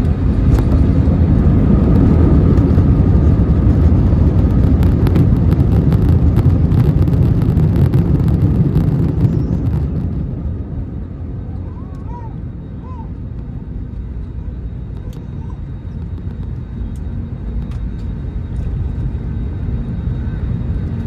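Airbus A320neo jet engines, a loud low rumble with a faint steady whine, which drops off about halfway through as the aircraft moves away and then carries on more quietly.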